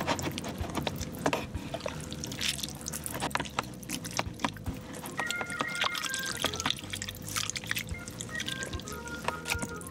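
Close-miked eating sounds: wet chewing and mouth clicks, many quick and irregular. Faint background music with a few plinking notes comes in about halfway through.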